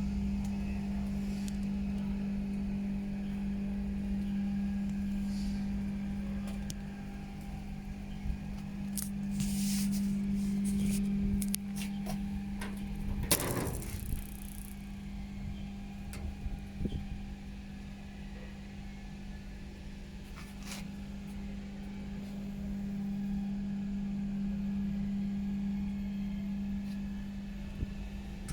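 Machinery running with a steady low hum, broken by a few clicks and knocks, the loudest about halfway through.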